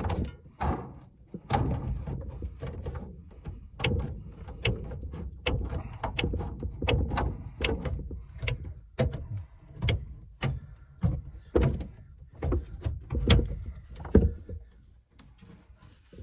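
Irregular knocks, clicks and thumps of hands working on and moving hard parts of an air-conditioning unit, with the sharpest knocks a couple of seconds before it quietens near the end.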